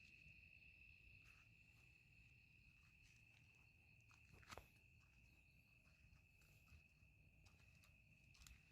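Crickets trilling faintly and steadily on one high note, with a few soft ticks, the clearest about four and a half seconds in.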